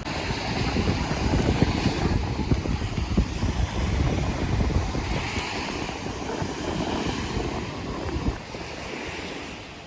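Wind buffeting the microphone in gusts over the wash of ocean surf, easing near the end.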